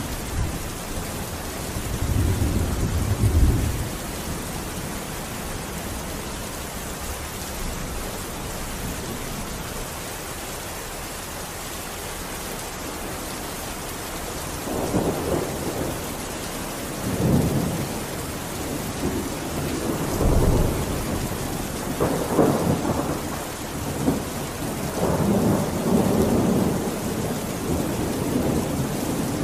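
Steady rain, with low rolls of thunder about two seconds in and again several times in the second half.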